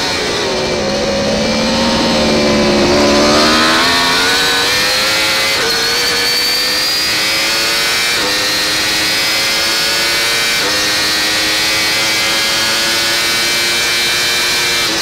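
Yamaha YZF-R1 superbike's inline-four engine at racing speed. The revs dip, then the bike accelerates hard, climbing in pitch with quick upshifts about six, eight and eleven seconds in. Steady wind rush lies underneath.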